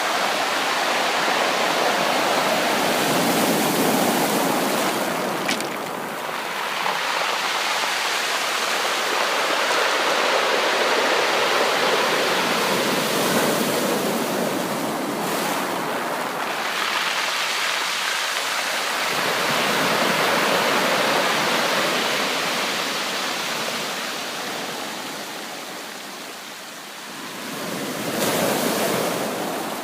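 Sea surf: waves breaking and washing in as a continuous rush that swells and eases over several seconds, fading a little before a fresh surge near the end.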